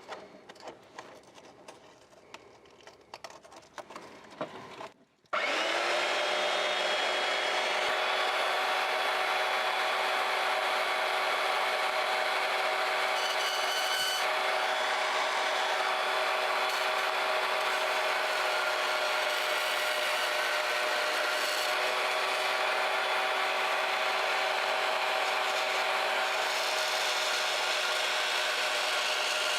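Harbor Freight portable metal-cutting bandsaw, mounted upright in a bench table, running steadily and sawing through metal, with a steady whine over the rasp of the blade. It starts suddenly about five seconds in, after a few faint handling clicks.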